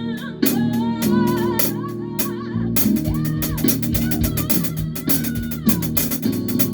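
A band rehearsing live: drum kit with steady cymbal and snare hits, bass and guitar holding low notes, and a voice singing a wavering melody over them.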